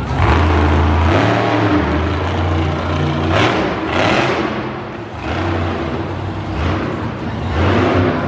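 Monster truck engine revving hard, its pitch stepping up and down several times, with a brief lull about five seconds in.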